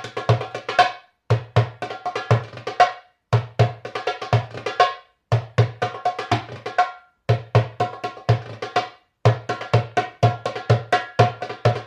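Middle Eastern drum played by hand in a fast rhythm, deep bass strokes mixed with sharper ringing higher strokes. The playing comes in phrases of about two seconds, each followed by a brief pause.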